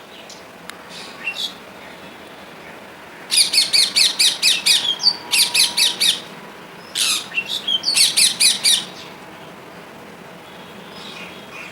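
Young parrot giving rapid, high, repeated squawking chirps, about five a second, in two bouts with a short pause between, starting about three seconds in and stopping near nine seconds.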